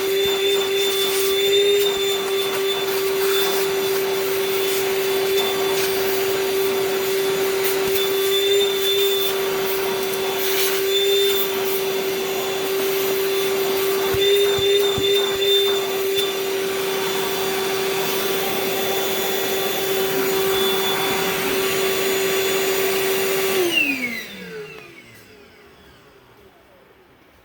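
Hart 20-volt cordless shop vac running steadily with a constant motor tone and airflow hiss, with a few short clicks along the way. About 24 seconds in it is switched off, and the motor winds down, its pitch falling away.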